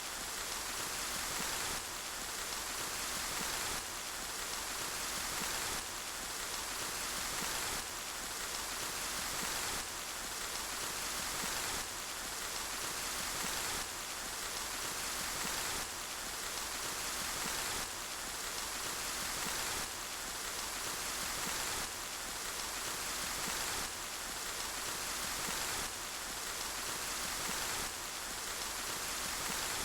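Steady rainfall, a dense even hiss with no separate drops standing out. The recording is a short loop that restarts about every two seconds, with a slight swell and a small drop in level each time.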